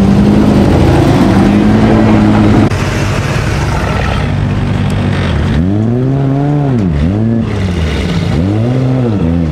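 A loud car engine running close by at a steady pitch, dropping away a little under a third of the way in. Then a sports car engine is revved three times in a row, each rev rising and falling in pitch.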